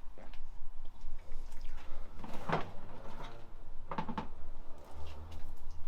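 A few knocks and clatters, the loudest about two and a half and four seconds in, over a low steady hum.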